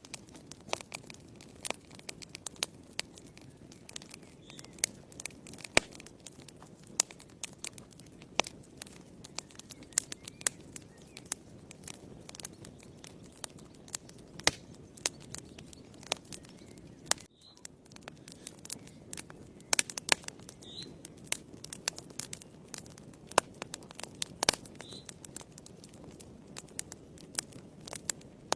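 Wood fire burning in a fireplace: irregular sharp crackles and pops over a low, steady rush of flame. The sound briefly drops out about 17 seconds in.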